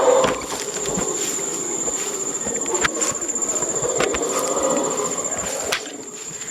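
Rainforest insects calling in one continuous high-pitched drone, with a few sharp clicks scattered through it.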